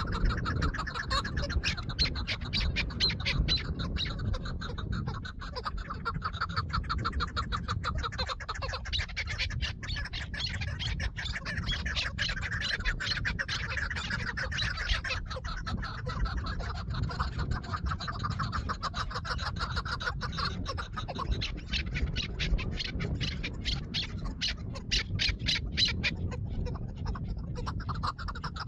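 Chukar partridges calling: a long run of rapid, repeated clucking notes.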